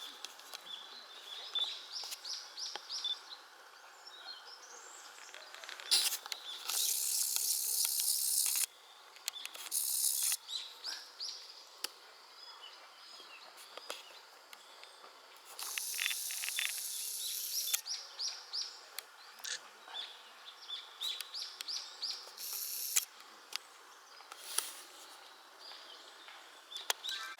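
Wild birds singing in woodland: repeated runs of quick high chirps, broken several times by a harsh, high hissing sound that lasts one or two seconds.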